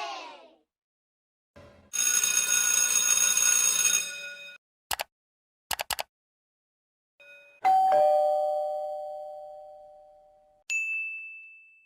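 A run of separate short sound effects: a bright, many-toned chime lasting about two seconds, a few quick clicks, then a doorbell-like ding-dong that rings out and fades slowly, and a short high ding near the end.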